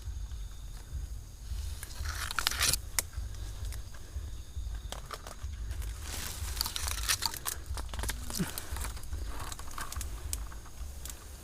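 Leaves and twigs rustling, crackling and snapping close to the microphone in clusters, over a steady low wind rumble.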